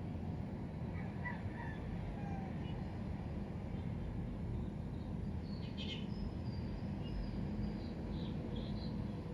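Steady low rumble of outdoor background noise with faint, scattered bird chirps, a few higher-pitched ones in the second half.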